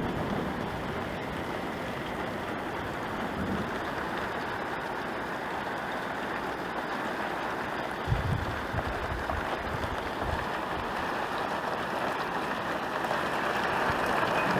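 Heavy rain falling steadily, with a short low rumble of thunder about eight seconds in. The rain grows louder near the end.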